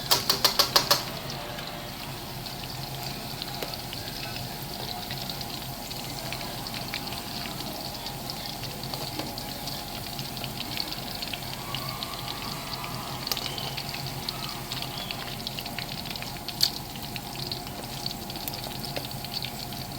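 Hot oil frying food with a steady sizzle and fine crackling. A quick rattle of about eight sharp taps opens it, and a single louder knock comes near the end.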